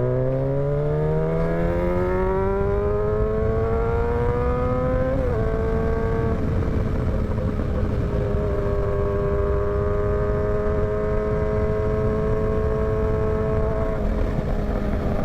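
Motorcycle engine pulling under acceleration with its pitch rising for about five seconds, easing slightly at a gear change, then holding a steady cruising note, over a constant rush of wind on the microphone.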